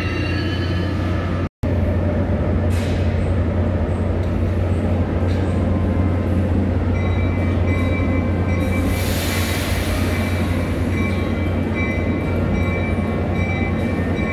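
NJ Transit commuter train moving slowly alongside the platform, with a steady low hum. A thin high-pitched wheel or brake squeal comes in about seven seconds in, and there is a brief rush of hiss around nine seconds.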